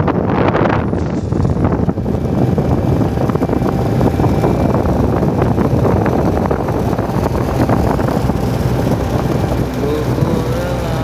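Tour boat's engine running steadily under way, with wind buffeting the microphone. A wavering pitched sound comes in near the end.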